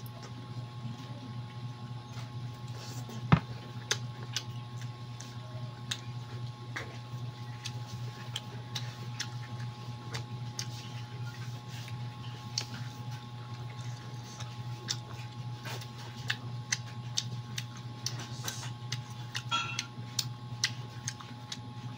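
Close-up chewing and lip-smacking while eating chicken and rice by hand: irregular small clicks and smacks, with one louder knock about three seconds in, over a steady low hum.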